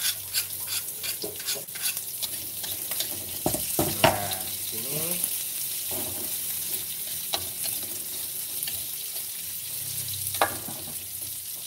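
Chopped garlic, shallots and chillies sizzling as they are stir-fried in a wok, with a metal spatula scraping and tapping against the pan. A sharper knock comes about four seconds in and again near the end.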